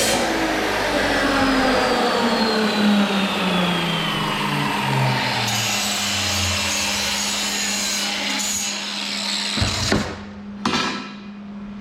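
A power saw winding down after a cut, its pitch falling steadily over several seconds, over a steady hum. Two sharp knocks near the end, then the noise drops away.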